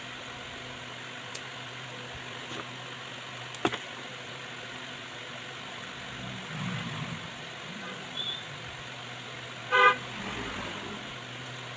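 A vehicle horn gives one short toot about ten seconds in. Before it there is a steady low hum, with a few sharp clicks and a brief low rumble.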